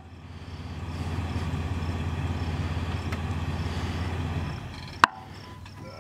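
Jeep engine running at low speed on a gravel road, then cutting out about four and a half seconds in. A single sharp click follows, the driver's door latch opening.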